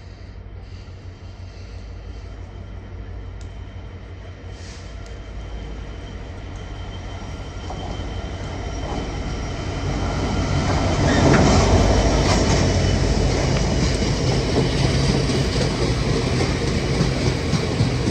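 A train approaching through the station, growing steadily louder until about eleven seconds in, then running past loudly with a steady low hum over the rumble of its wheels.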